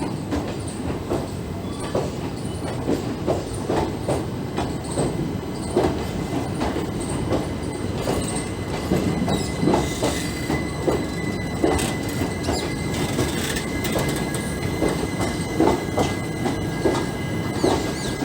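Passenger train running on the rails, its wheels knocking over rail joints in a repeated clickety-clack. About halfway through, a thin steady squeal from the wheels comes in.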